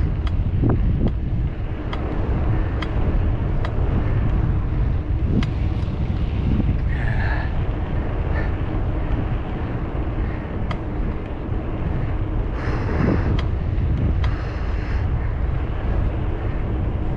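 Wind buffeting the microphone of a moving bicycle, a steady low rumble, with scattered sharp clicks and a few brief higher-pitched sounds.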